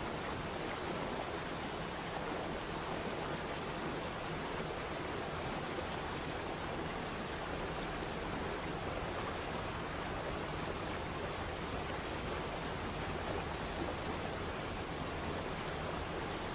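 Waterfall water falling, a steady, even rush of white water with no change throughout.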